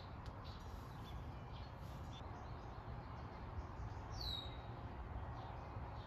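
Birds chirping: scattered short high chirps and one clear downward-sliding call a little after four seconds, over a steady low background rumble.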